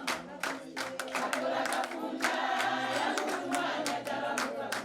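A group of voices singing together with rhythmic hand clapping, the clapping thickest in the first couple of seconds.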